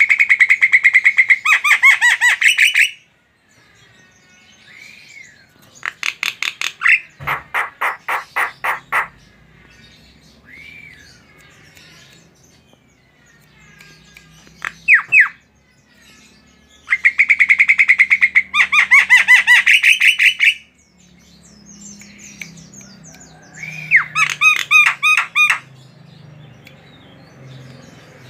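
Javan myna calling in four loud bouts of rapid, chattering repeated notes, with single short whistled notes in the gaps between bouts.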